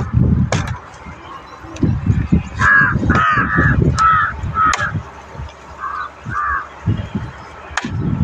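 A bird calling outdoors: a quick run of about six calls a few seconds in, then two more a little later. Underneath are low knocks and a few sharp clicks as the plastic air-cleaner cover of a tractor is handled and pressed back into place.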